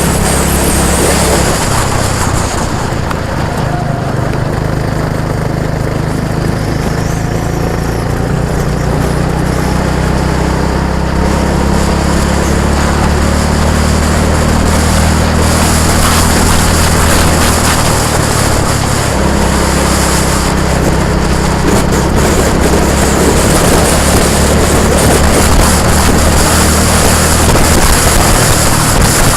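A motor vehicle's engine running steadily while under way, its pitch shifting down a little near the start and again about two-thirds of the way through, with rushing road or wind noise.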